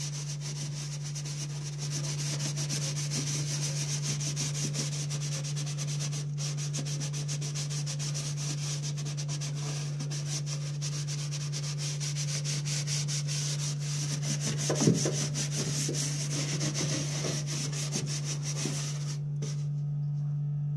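Kitchen sponge scrubbing scouring-powder paste and grease off the inside of a microwave oven: a fast, continuous rubbing that stops shortly before the end. A steady low hum runs underneath.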